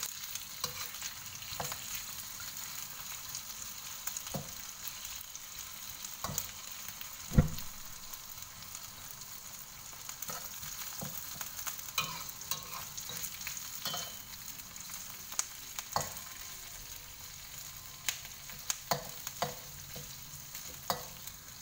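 Boiled chicken feet sizzling in hot oil with garlic and onion in a wok as they are stir-fried to brown, a steady hiss. A metal spatula scrapes and knocks against the wok about every second, one knock about seven seconds in louder than the rest.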